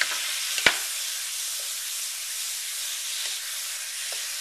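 Chicken strips, onion and celery frying in a hot wok: a steady sizzling hiss as a wooden spatula stirs them, with one sharp knock, the spatula against the pan, about two-thirds of a second in.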